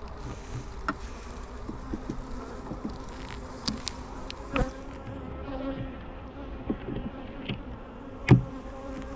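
Honeybees buzzing around an open hive, a steady hum, with a few scattered clicks and knocks. The loudest knock comes about eight seconds in.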